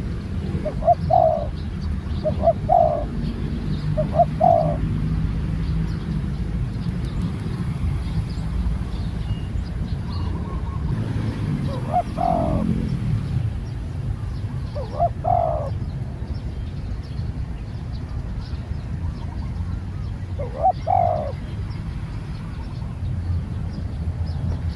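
Spotted dove cooing: a phrase of three short coos, then single coos spaced several seconds apart, over a steady low rumble.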